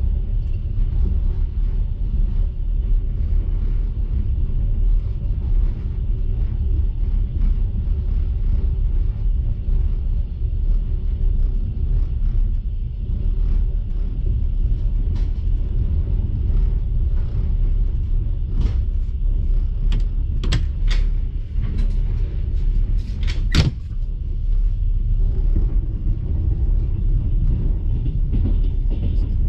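Steady low rumble of a moving passenger train heard from inside the carriage, with a handful of sharp clicks about two-thirds of the way through.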